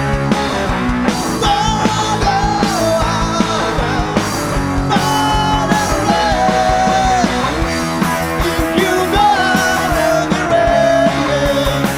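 Rock band playing a song live: a steady drum beat under long held melody notes.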